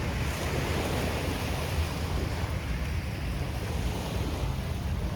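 Surf washing onto a sandy beach, with wind rumbling on the microphone; the wash swells in the first couple of seconds.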